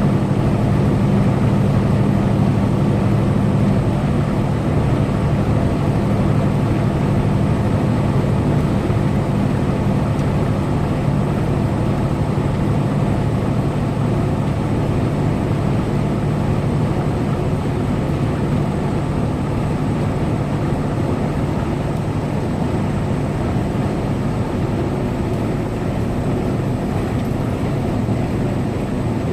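Semi truck's diesel engine running steadily at highway cruising speed, a low even hum over steady road noise.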